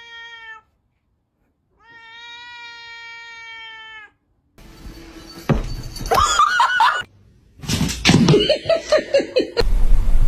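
Domestic cat giving two long, drawn-out meows held at a steady pitch, then from about halfway a much louder, noisier stretch of rising-and-falling cat cries and choppy sounds.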